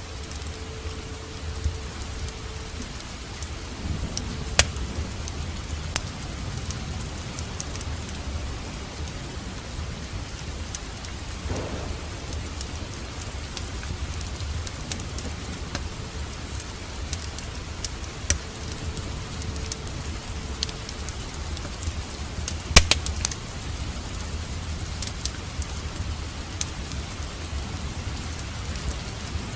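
Steady rain under a low rumble, with scattered sharp crackles and pops from a wood fire; the loudest crackles come in a cluster about 23 s in.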